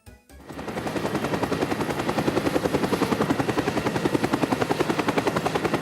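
Rapid, steady mechanical chopping of about ten pulses a second, building up over the first second and then holding even.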